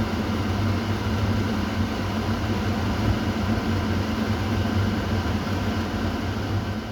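Kitchen exhaust fan running steadily: a constant rush of air over a low motor hum.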